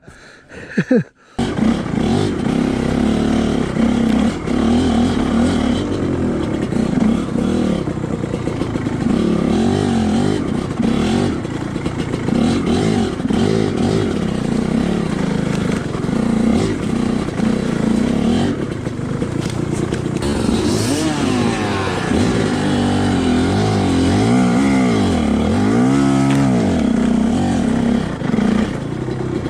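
Two-stroke dirt bike engine running under load on a trail ride, revving up and down as the throttle is worked; it comes in abruptly about a second in.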